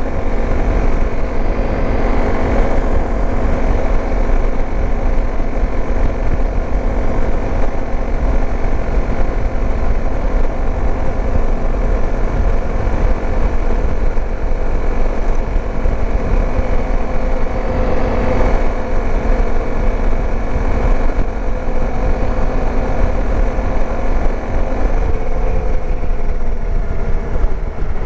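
Dirt bike engine running steadily at road speed, with heavy wind rumble on the microphone. The engine note eases off slightly near the end.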